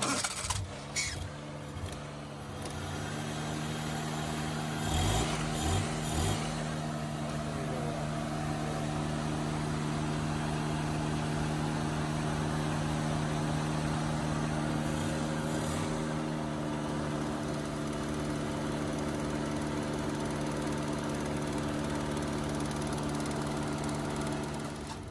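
Small Suzuki car engine running on a Honda 125 motorcycle carburetor. It catches at the start and then idles at a steady pitch, with a few short knocks about five to six seconds in.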